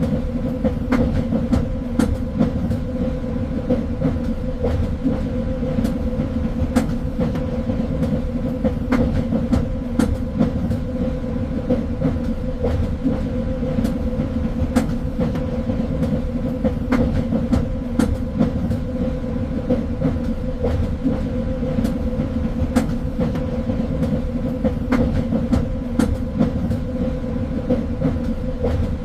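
Train running steadily along the track: a constant low rumble and a steady hum, with frequent irregular clicks from the wheels over the rails.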